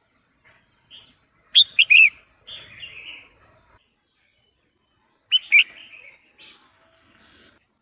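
Female red-whiskered bulbul calling: two loud bursts of a few short, sharp notes, one about one and a half seconds in and another about five seconds in, each trailing off into softer chatter.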